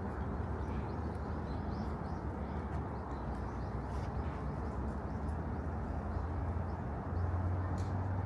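Outdoor park ambience: a steady low rumble of distant traffic, a little louder near the end, with a few faint bird chirps over it.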